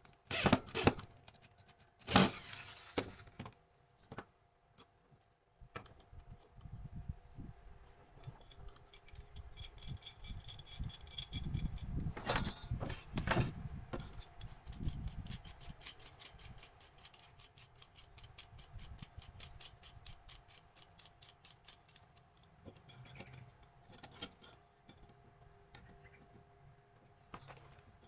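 Metal pieces clinking and rattling, with a few sharp knocks in the first seconds and then a long run of quick, even ticks lasting about a quarter of a minute.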